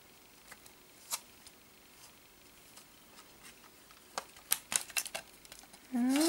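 Light clicks and taps of a plastic CD/DVD case and its discs being handled. There is one click about a second in, then a quick run of clicks near the end.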